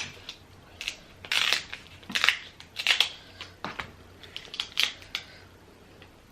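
King crab leg shell cracking and crunching as it is broken open, in about six or seven short crackling bursts that stop about five seconds in.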